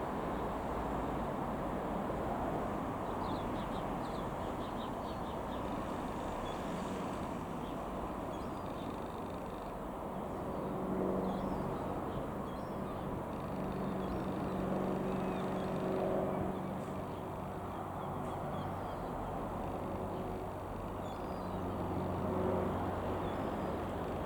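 Piper PA-28R-201 Arrow's single piston engine and propeller droning steadily at a distance, its hum swelling at times, over outdoor background noise. A few faint bird chirps come early on.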